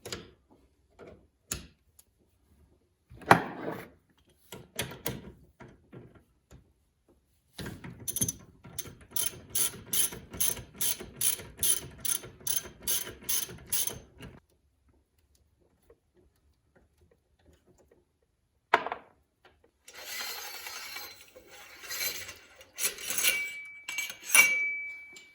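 Dirt bike fork work: scattered metal clicks and knocks, then a steady run of ratchet-like clicks at about three a second for six seconds while the bottom adjuster is worked off the fork's damper rod. After a pause, parts handling follows with more clicks, rubbing and a brief high squeak near the end.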